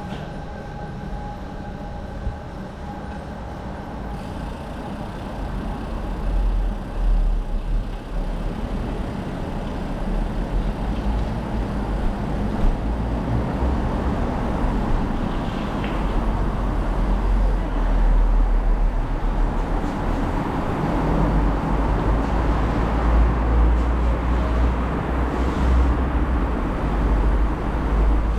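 Wind rushing over the microphone and bicycle tyres rolling on the road surface as a bike speeds downhill through a road tunnel, a steady rushing noise with a deep buffeting rumble that grows louder as the speed builds.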